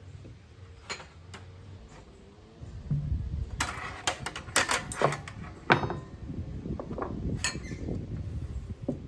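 A run of knocks and clatters from hard objects being handled, some with a brief metallic ring. It starts about three seconds in and is busiest in the middle.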